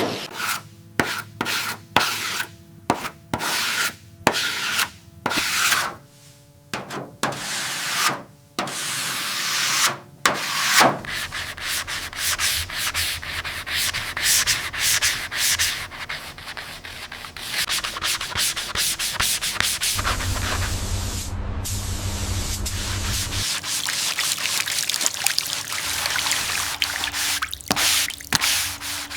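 Sanding by hand: a run of separate rubbing strokes with short pauses, then continuous rubbing for the rest of the time. A low hum joins in for a few seconds past the middle.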